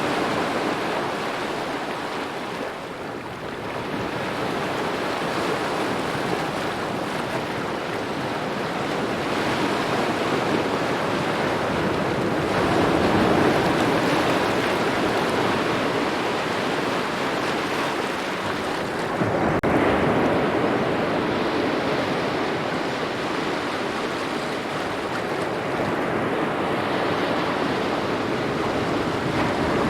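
Small waves lapping at the shore, a steady wash of water that swells and eases with each wave, loudest about a third and two thirds of the way in.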